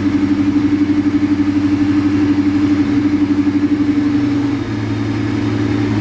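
Vortech-supercharged 1999 Ford Mustang GT's two-valve 4.6 L V8 idling just after a start, with a fast regular pulse in its loudness; about four and a half seconds in the note changes and settles a little lower and quieter.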